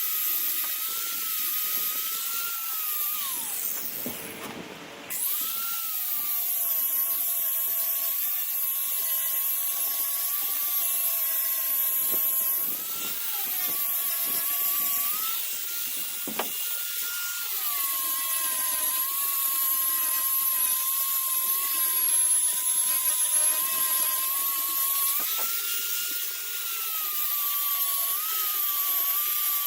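Six-inch Harbor Freight dual-action sander running on the edges of fiberglass tabbing, a steady whine that wavers in pitch. About three seconds in it winds down and stops briefly, then starts up again.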